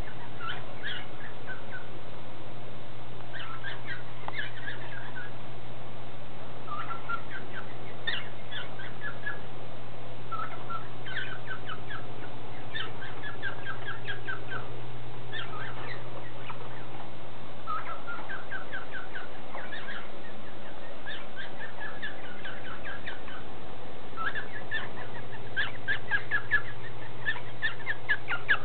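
Pet cockatiels and parakeets chirping in short runs of quick notes every couple of seconds, over a steady low hum.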